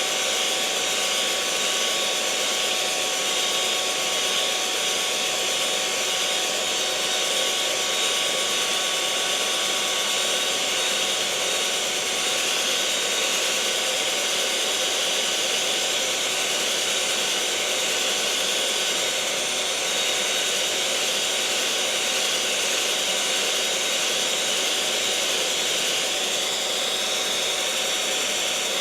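Electric kitchen mixer running steadily at constant speed: an even, high whirring hum with a faint whine.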